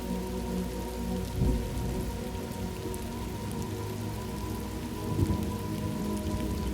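Thunderstorm ambience: steady rain falling, with a low rumble of thunder swelling about five seconds in.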